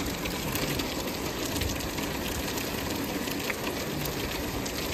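Steady heavy rain falling on wet pavement and parked cars, with scattered sharp ticks of drops.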